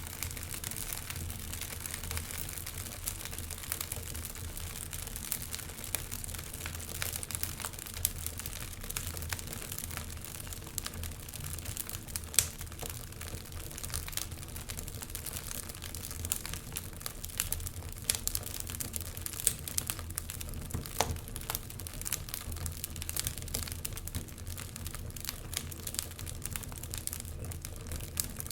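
Wood fire burning in a fireplace, crackling with a steady stream of small sharp pops and snaps over a low rushing hiss of the flames; one louder pop comes about twelve seconds in.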